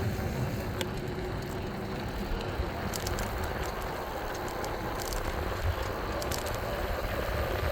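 Steady low rumble and hiss with scattered small crackles and ticks: wind and road noise from a moving e-bike.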